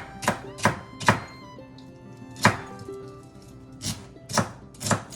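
Kitchen knife chopping vegetables on a cutting board: a quick run of four chops in about the first second, then single chops with pauses, about eight in all.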